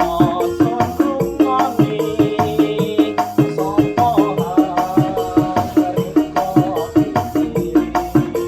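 Arranger keyboard playing an instrumental dangdut koplo tune: a melody line over a quick, steady drum and percussion accompaniment.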